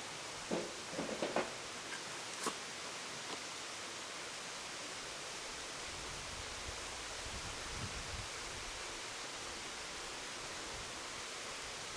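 Steady outdoor background hiss, with a few short knocks and rustles in the first few seconds and a faint low rumble later on.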